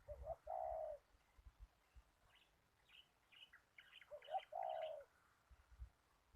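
A dove cooing twice, each phrase a short note then a longer one, with faint high chirps of a small bird between them.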